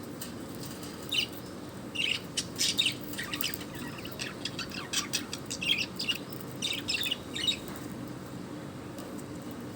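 Pet bird chirping in quick clusters of short, high chirps, falling quiet about three-quarters of the way through.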